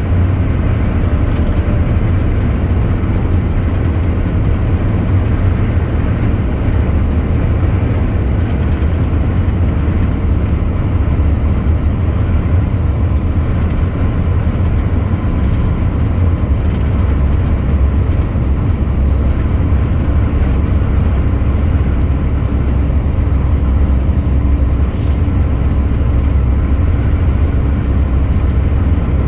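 A truck driving along, its engine and road noise making a steady low drone with no change in pace.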